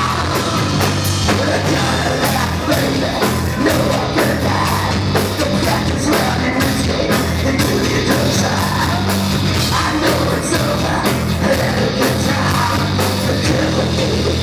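Loud live rock band playing, with distorted guitars, bass and drums under shouted vocals.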